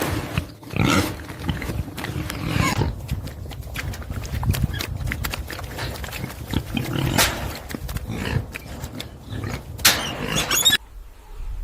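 Animal calls: a run of loud, irregular calls and noises that cut off suddenly near the end.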